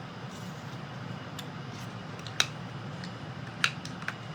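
A few short, sharp clicks of a paper strip being cut into a banner tail, over a steady low hum.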